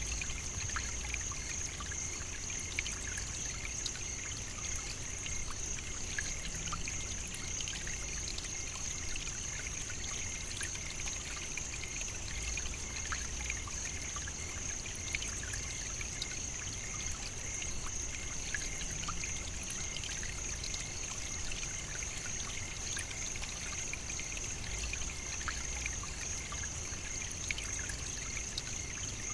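Savannah nature ambience: a constant high, even chorus with scattered faint ticks, running without a break.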